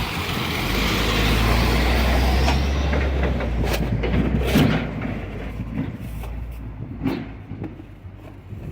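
A heavy truck drives past, its low engine rumble loudest in the first three seconds and then fading away.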